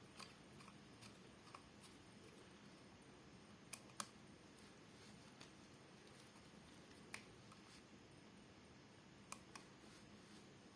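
Faint, scattered small clicks of a screwdriver working a wire terminal screw on a ceiling fan's connector, over near silence; the sharpest click comes about four seconds in.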